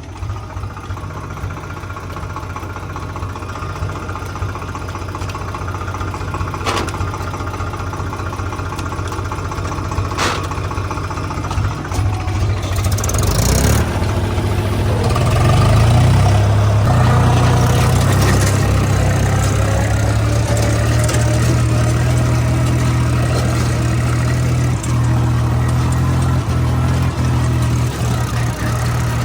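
Diesel tractor engine running under load, pulling a loaded trolley in gear. About 14 seconds in it gets louder and stays louder to the end, with a couple of brief knocks before that.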